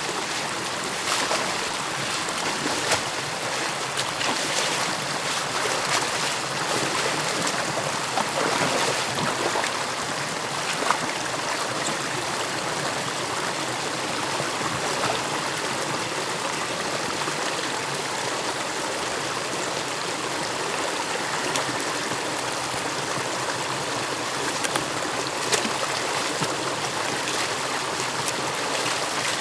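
Stream water rushing and trickling steadily through an opened beaver dam, with a few brief clicks or knocks scattered through it.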